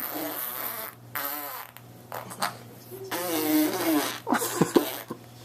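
A run of fart-like noises: rasping blasts, two of them with a wobbling pitch, then a few short sharp pops near the end.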